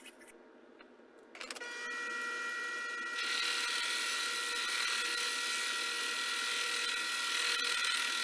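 A small electric machine-tool motor starts up a little over a second in and runs with a steady whine. About three seconds in, a louder steady hiss joins it.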